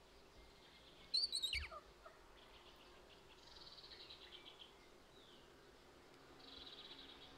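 Birds calling outdoors: one loud call sweeps quickly down in pitch about a second in. Softer rapid chirping trills come twice later.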